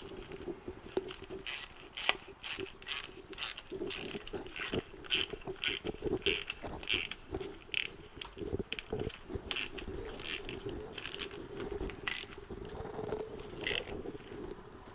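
Hand ratchet wrench with an 8 mm socket clicking in short bursts, about two strokes a second, as a fastener is worked.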